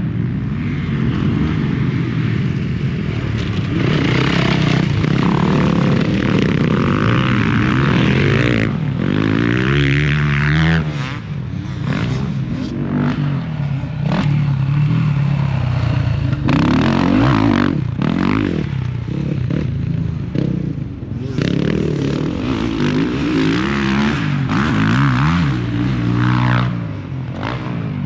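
Several motocross dirt bikes racing on the track, their engines revving up and falling off again and again as the riders throttle and shift.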